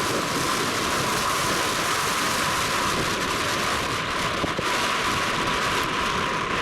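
Jet airliner engine noise: a steady, loud rushing sound that holds an even level throughout.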